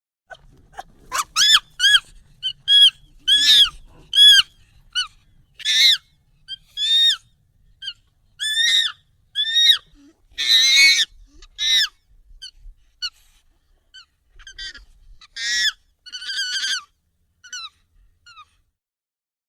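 Monkey calls, sped up and pitched higher: a long series of short, high calls, each rising then falling in pitch, some coming in quick runs, with a longer, harsher call about halfway through.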